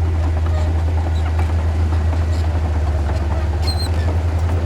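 Heavy construction machine's diesel engine running with a deep, steady drone; its level pulses quickly from about two seconds in, with faint scattered clicks above it.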